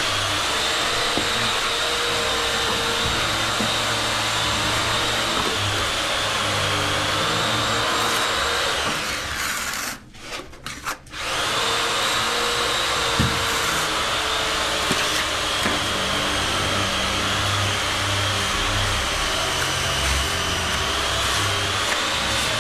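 A steady electric motor running with a rushing-air noise and a high whine, vacuum-like, cutting out for about a second near the middle before running on.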